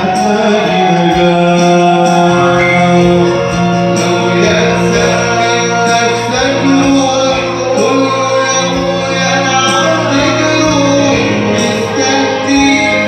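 Arabic Christian hymn: a male voice singing a melody over steady instrumental accompaniment with long held notes.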